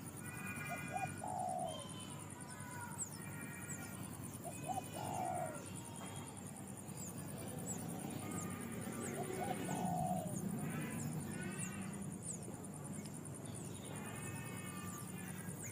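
Wild birds calling: a low call repeats three times, about four seconds apart, among higher calls and short, quick falling chirps. A steady high-pitched drone runs underneath.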